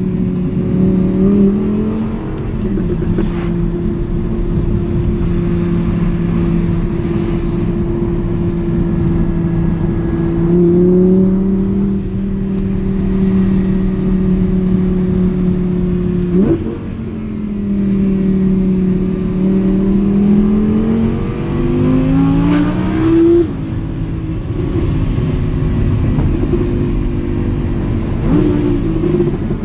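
Audi R8 V10 Plus's 5.2-litre naturally aspirated V10 engine pulling on the road, holding a steady note for long stretches and stepping up in pitch about ten seconds in. Later it climbs steadily in pitch for several seconds under acceleration, then drops sharply as at a gear change, with a couple of sharp pops along the way.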